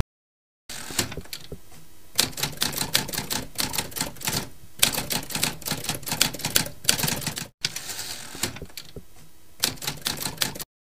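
Typewriter keystrokes: a long run of rapid, irregular key clicks, with brief pauses about halfway and two-thirds of the way through.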